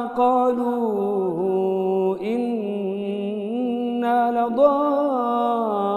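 A man chanting Quran recitation in melodic tajwid style, holding long drawn-out notes with slow ornamented rises and falls in pitch.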